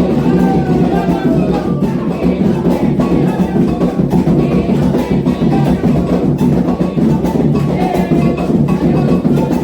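Candomblé ritual music: atabaque hand drums playing a dense dance rhythm with a bell or wood-block-like percussion, and voices singing a chant near the start and again near the end.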